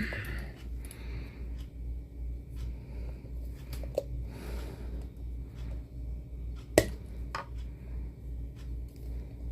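Small clicks and knocks of the snow globe's base and figure being eased out through the glass globe's opening, with a sharp click about four seconds in and a louder one near seven seconds, over a steady low pulsing hum.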